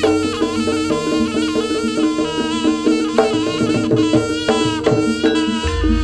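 Live Javanese jaranan gamelan ensemble playing: drums and struck metal percussion keep a busy rhythm under steady ringing tones and a melody line.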